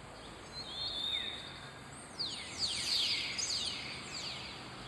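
A bird chirping in quick high falling notes: a short burst about a second in, then a longer run of chirps from about two seconds to four seconds.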